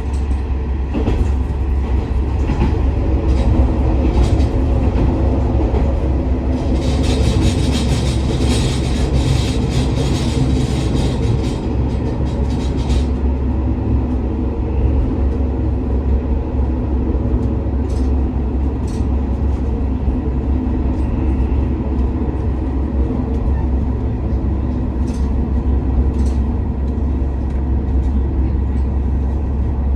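JR West KiHa 47 series diesel railcar under way, heard from inside the car: a steady low rumble of the diesel engine and wheels on the rails. A hiss rises for about six seconds near the start, and a few sharp rail-joint clicks come later.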